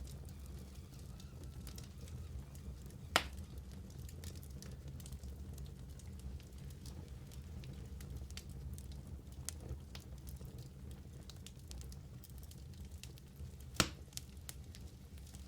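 Wood fire burning in a fireplace: a steady low rumble with frequent faint crackles, and two sharp, loud pops, one about three seconds in and one near the end.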